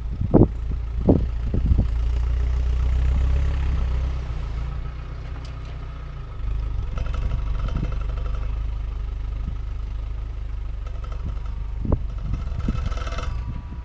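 Land Rover Defender 90's engine running steadily at low speed on an off-road trail, a little louder for a few seconds early on. Several sharp knocks come in the first two seconds and again near the end.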